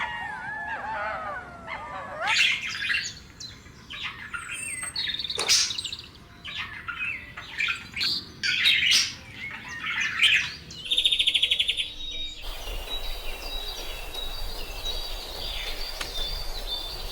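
Birds chirping and calling: a run of short chirps and whistles, a rapid buzzing trill about eleven seconds in, then fainter repeated calls over a steady background for the last few seconds.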